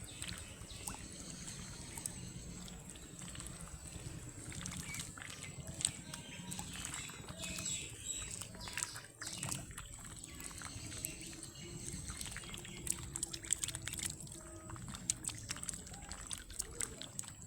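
Ducklings splashing and paddling in water, with many small clicks and splashes and a few short calls.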